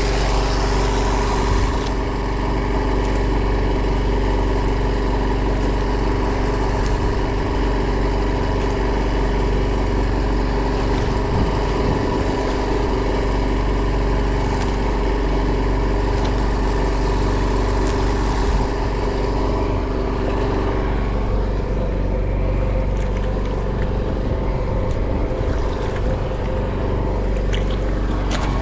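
Boat engine running steadily, with an even mechanical hum; its tone shifts slightly about twenty seconds in.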